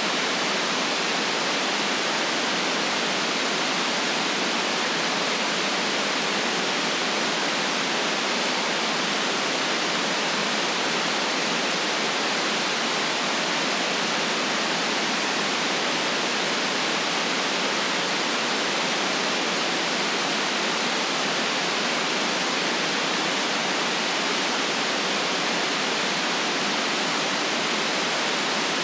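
Steady synthetic white noise, an even hiss with no change in level or texture, cut off below the deep bass and above the high treble.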